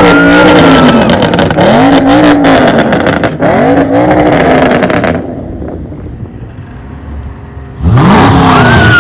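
A car engine being revved hard, loud, in repeated blips that each rise and fall in pitch over about a second: three in quick succession, then a lull and another rev near the end.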